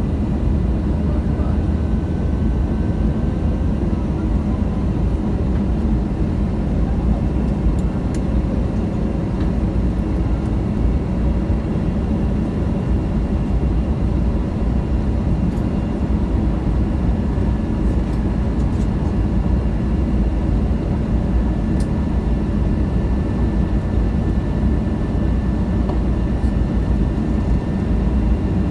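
Steady drone of an airliner's engines and airflow, a low rumble with faint steady whining tones above it and no change in pitch.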